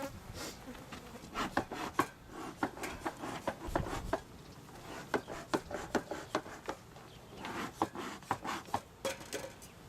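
Wooden beehive parts being handled as the hive is opened: a run of sharp clicks and knocks mixed with rubbing and scraping, in clusters.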